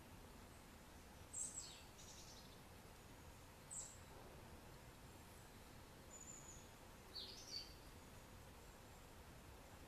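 Faint bird calls over a near-silent background: a handful of short, high chirps, most sliding down in pitch, coming every second or two.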